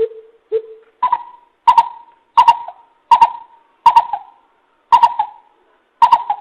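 Greater coucal giving its deep hooting call: a series of about nine hoots, the first two lower, the rest higher and evenly spaced, each with a sharp click at its onset, as in a looped lure recording.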